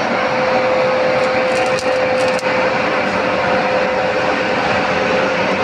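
Metalworking equipment running steadily and loudly, with a constant hum under a broad noise and a few faint ticks, as in cutting or welding a steel frame.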